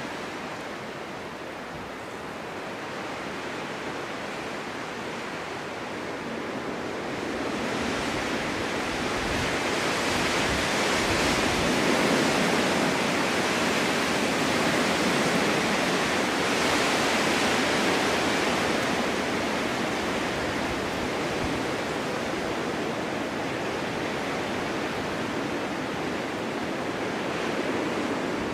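Snowstorm wind blowing as a steady rushing noise, building into a stronger gust about a quarter of the way in and easing off again after the middle.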